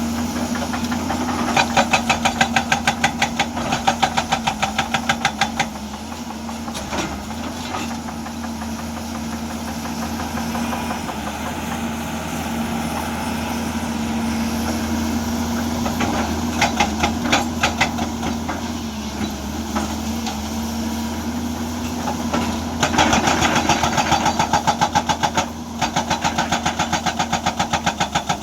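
Hyundai 210-class excavator's hydraulic breaker hammering rock in three spells of rapid, evenly spaced blows, near the start, around the middle and near the end. The excavator's diesel engine runs steadily underneath throughout.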